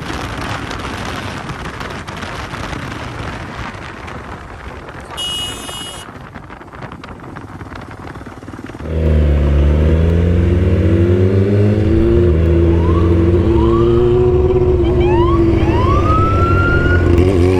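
Wind rush on a riding microphone, broken by a brief electronic beep. About halfway through, a loud motorcycle engine sound comes in sharply, its pitch slowly rising and falling. Over it a police siren sweeps upward in repeated whoops that turn into quick short yelps near the end.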